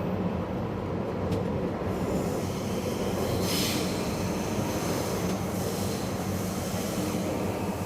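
A Taipei Metro Zhonghe-Xinlu line train running: a steady rumble with a low hum, and a brief hiss about three and a half seconds in.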